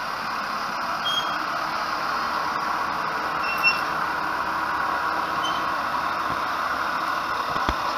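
Locomotive of the Pineapple Express tourist train moving past, a steady rushing noise with a few brief high chirps.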